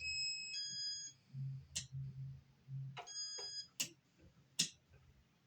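Casablanca W11 fan wall control beeping as its buttons are pressed to change the fan speed: a two-part electronic beep at the start and a shorter beep about three seconds in, with sharp button clicks in between.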